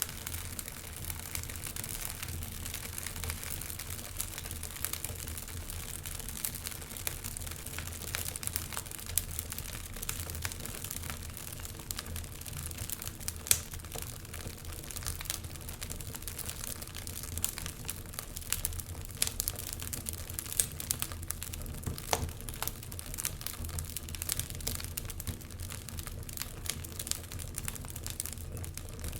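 Wood fire burning in a fireplace: a steady low rumble and hiss of flames with frequent sharp crackles and pops, one louder pop about halfway through.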